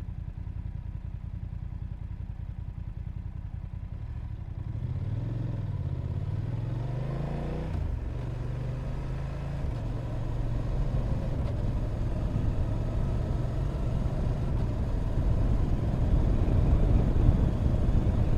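Motorcycle engine heard from the rider's seat while riding, running low and steady at first, then rising and dropping in pitch around the middle as it picks up speed. It settles into a steady run while rushing wind grows louder toward the end.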